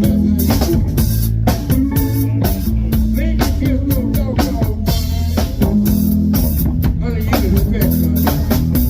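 Live band playing a steady groove: electric guitar over bass and a drum kit with regular snare and cymbal hits.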